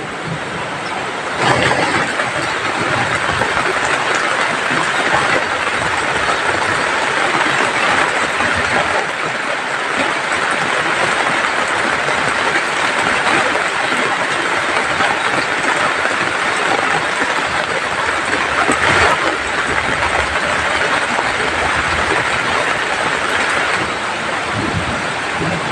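Heavy tropical downpour: a loud, steady rush of falling rain and running water, swelling briefly twice.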